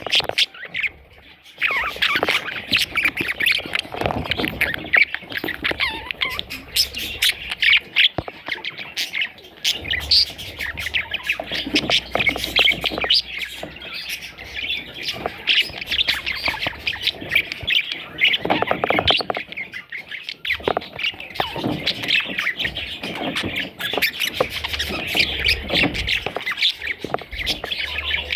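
Budgerigar chicks squawking and chirping in a dense, constant chatter of short, rapid calls, starting after a brief lull right at the beginning.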